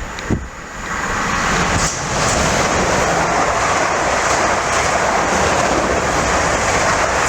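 Train passing close by at speed: a steady, loud rushing noise that builds about a second in and holds.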